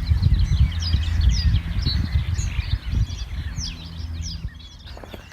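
Spring birdsong: several small birds chirping and singing at once, in many short quick notes and trills. Beneath it runs a low rumble, loudest for the first three seconds and then fading.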